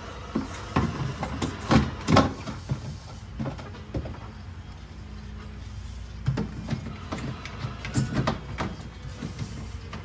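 Irregular knocks and clatter of containers, shelves and drawers being handled while a refrigerator is cleaned out, loudest in the first few seconds, over a steady low hum.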